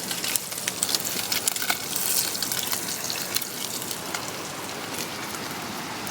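Small piaba fish cooking on a stove: a steady sizzle with scattered pops and crackles that thin out after about four seconds.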